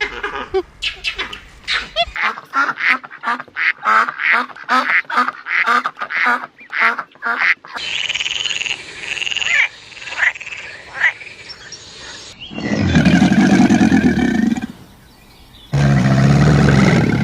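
A series of animal calls: a fast run of short repeated calls, about two to three a second, for the first half, then different calls and two loud, longer sounds near the end.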